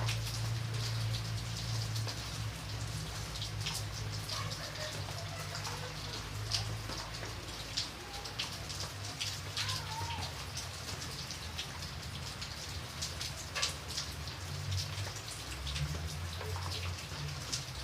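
Rain falling, with many separate drop hits over a steady hiss and a low steady rumble underneath.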